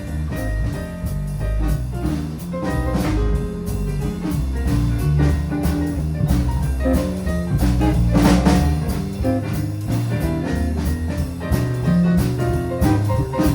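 Jazz band playing an instrumental passage, with drum kit, bass and guitar.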